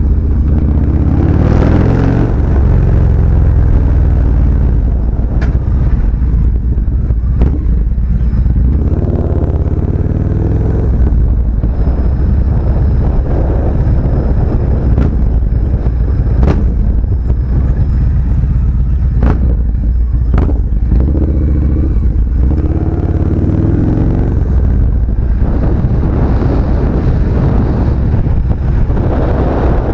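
Motorcycle engine running while riding, its pitch rising and falling several times as the rider speeds up and slows. A few sharp clicks are heard over it.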